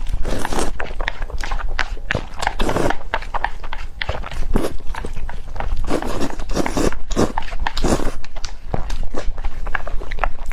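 Close-miked mouth sounds of eating Buldak fire noodles: repeated wet slurping and chewing with irregular smacks and clicks.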